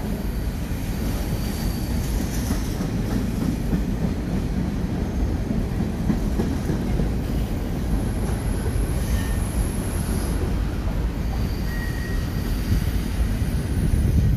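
Freight train of covered hopper cars rolling past: a steady rumble of wheels on rail, with thin, high wheel squeal that comes and goes.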